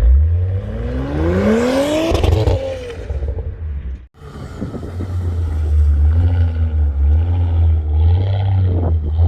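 2018 Audi S5's turbocharged 3.0-litre V6 through a Milltek aftermarket exhaust, revving up with a rising pitch over the first couple of seconds. The sound cuts off abruptly about four seconds in, then the engine runs at high revs with its pitch wavering up and down.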